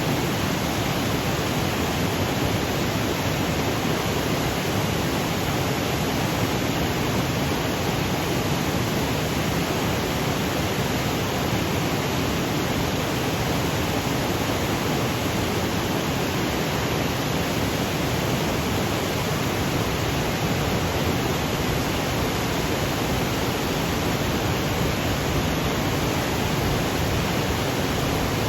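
Waterfall cascading over granite boulders: a steady, even rush of falling water.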